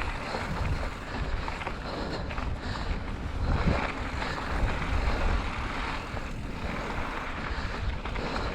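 Mountain bike ridden along a dirt trail: wind noise on the microphone over a steady low rumble of tyres and bike over rough ground.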